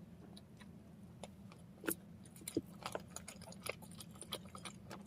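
Close-miked chewing of a bread snack: faint, scattered wet mouth clicks and smacks, several a second.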